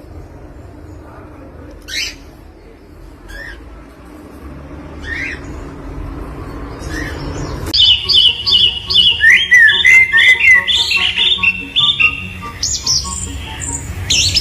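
A bird calling: a few single short rising chirps, then from about halfway a loud, rapid run of repeated calls.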